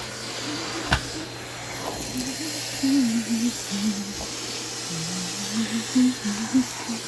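Vacuum cleaner running steadily while picking up crumbs, with a couple of sharp clicks about one and two seconds in. A simple tune of held notes, stepping up and down, sounds louder over the motor.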